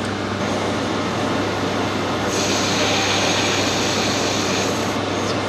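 Metal lathe running steadily with a constant motor hum. From about two seconds in, a cutting tool works the spinning brass for a couple of seconds, adding a higher hiss.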